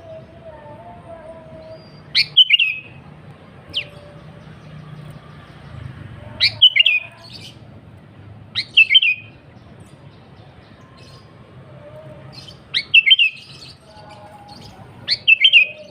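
Sooty-headed bulbul (kutilang) singing in short, bright phrases: five of them a few seconds apart, each a quick run of falling notes.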